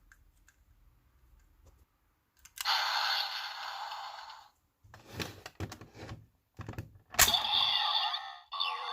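Kamen Rider Ghost DX toy playing its electronic sound effects: a noisy burst lasting about two seconds, then plastic clicks and knocks as it is handled, and a sharp click near the end that sets off another electronic sound with steady tones.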